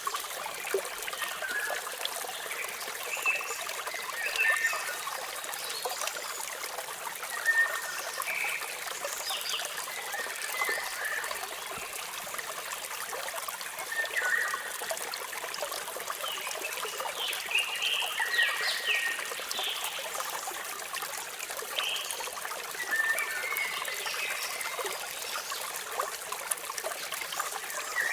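Waterfall water running and trickling steadily, with birds chirping in short, scattered calls throughout.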